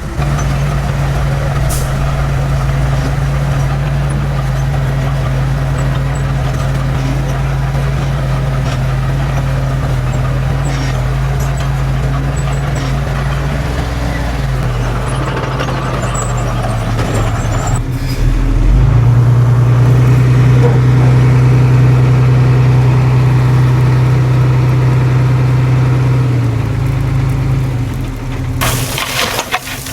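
Heavy diesel engine of earthmoving machinery running steadily under load, working harder and louder about two-thirds of the way through, then easing off. Near the end a harsh crunching, rushing noise begins, as of soil being moved.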